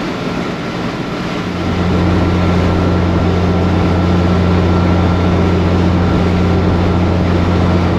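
Heavy diesel truck driving, heard from inside the cab: steady engine and road noise. About a second and a half in, a steady low engine drone comes in and holds.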